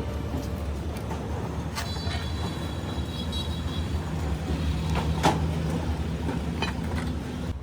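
A steady low engine hum, with a few sharp metallic clicks, about two seconds in and again past five seconds.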